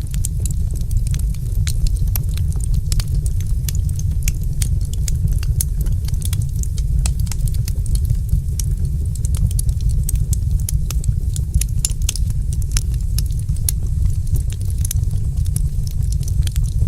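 Wood fire crackling: many short sharp pops and snaps at irregular intervals over a steady low rumble of the burning fire.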